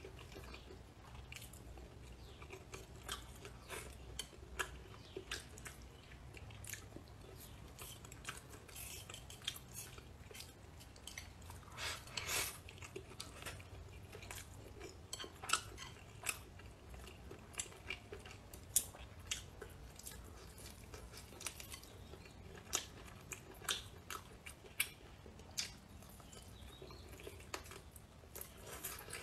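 Close-up chewing and biting as a person eats a bowl of rice with braised potato and chicken: irregular wet smacks and crunches, with the loudest crunch a little before halfway.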